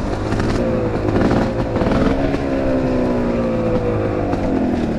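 Enduro motorcycle engine running with the revs changing, rising about a second in and then sinking slowly over the last couple of seconds.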